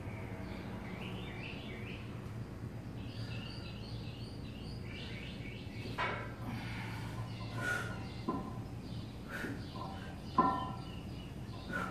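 Small birds chirping over a steady low hum, with several sharp clinks in the second half, the loudest about ten seconds in.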